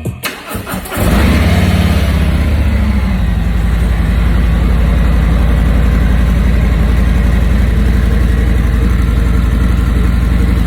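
Harley-Davidson Street Glide Special's 114 cubic-inch V-twin on its stock exhaust starting about a second in, then idling steadily with a deep, even rumble.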